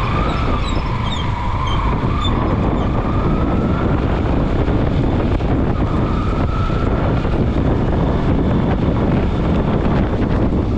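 Steady loud roar of floodwater rushing out of the dam's open spillway gates, with wind buffeting the microphone.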